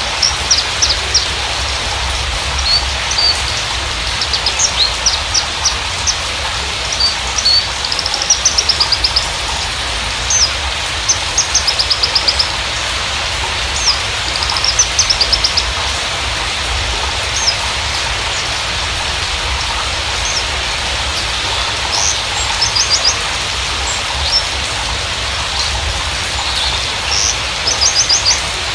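Horsfield's bushlark (Mirafra javanica parva) singing: short, rapid high trills and chirps in bursts every second or two, over a steady hiss.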